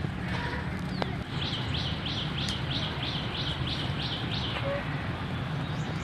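A bird calling: a run of about a dozen short, high, falling notes, roughly three a second, that stops just over halfway through, over a steady low hum.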